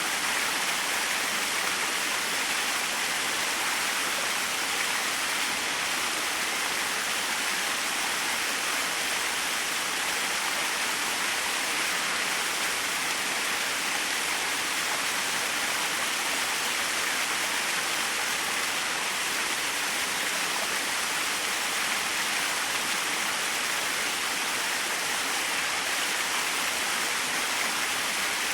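Small waterfall splashing steadily, an even rushing hiss of falling water.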